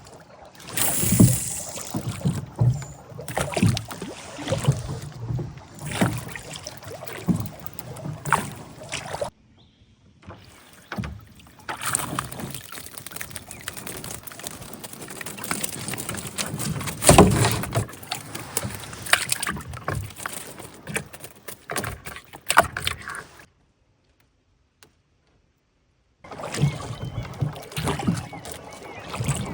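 Water splashing and lapping around a small boat on a lake, with uneven knocks and bumps in the boat. It breaks off to silence for about three seconds near the end.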